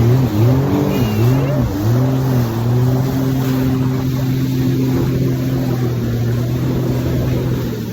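Jet ski engine under way, its pitch rising and falling several times as the throttle is worked, then holding a steady note at speed.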